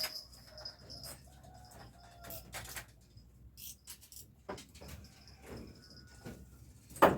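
Faint birds calling, a few short calls, over a steady high whine, with scattered light clicks and one sharp knock near the end.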